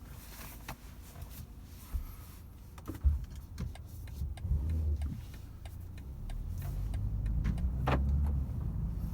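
Car sounds from a BMW 330i: a few clicks and a sharp thump about three seconds in, then the low rumble of its turbocharged 2.0-litre four-cylinder engine, growing louder from about six seconds in.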